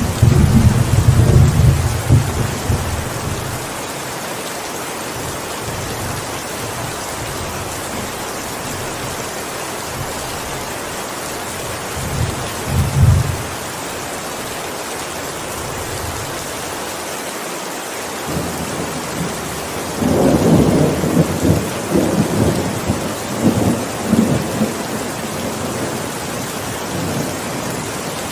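Steady heavy rain hissing, with rolls of thunder: a rumble fading out over the first few seconds, a short one about twelve seconds in, and a longer, louder roll about twenty seconds in that dies away over several seconds.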